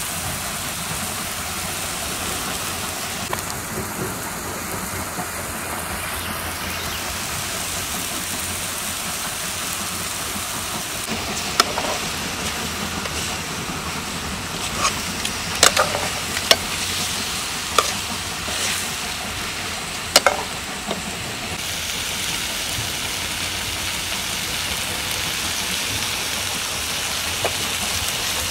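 Pork sizzling as it fries in an iron wok over a wood fire, a steady hiss throughout. In the middle, a steel ladle stirring the meat clinks and scrapes against the pan a number of times.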